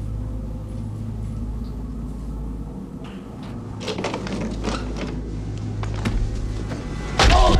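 A steady low hum, then a run of clicks and knocks from about halfway in, ending in one loud slam near the end, like a door or latch being worked and shut.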